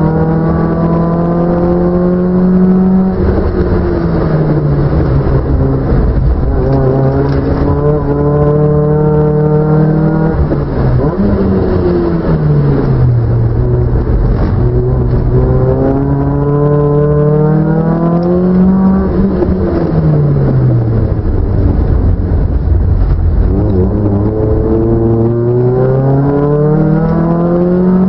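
Car engine revving hard through the gears, as on a race circuit: the pitch climbs, drops abruptly at each upshift, then falls away in long slides as the car slows, several times over.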